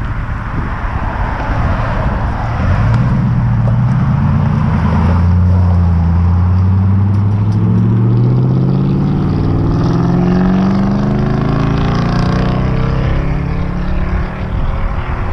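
2018 Toyota Tundra's V8 through a Flowmaster Outlaw exhaust, accelerating hard. Its note climbs steadily in pitch from a few seconds in until near the end.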